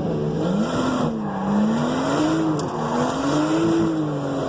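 Drift car's engine revving up and down as it holds a slide, its pitch rising and falling a few times, with tyres squealing underneath.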